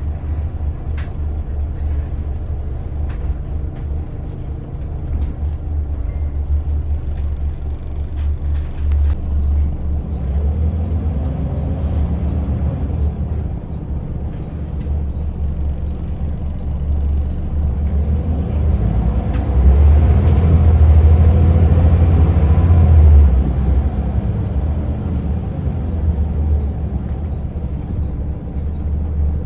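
Scania L94UA articulated bus's diesel engine running with a heavy low rumble, pulling harder and louder about two-thirds of the way through, then easing off.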